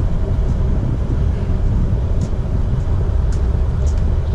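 Steady low rumble of wind buffeting the microphone outdoors, with a few faint, short high chirps about two seconds in and again near the end.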